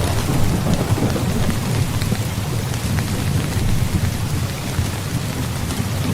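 Steady heavy rain with scattered drop ticks, under a continuous low rumble of distant thunder.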